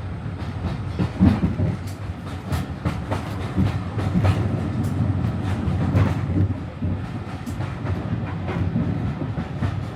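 Railway carriage riding at about 20 mph: a steady low rumble from the wheels on the rails, with irregular clicks and knocks as it clatters over the track, on a bouncy ride.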